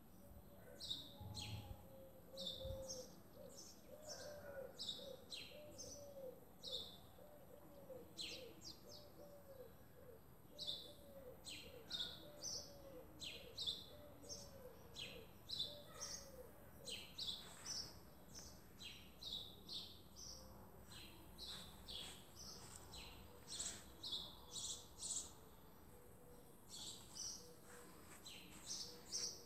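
Small birds chirping: many short, high chirps, often in quick runs. During the first half a lower note, rising then falling in pitch, repeats a little more often than once a second.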